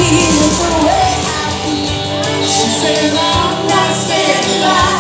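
Live pop-rock music with a singer's voice held over the band.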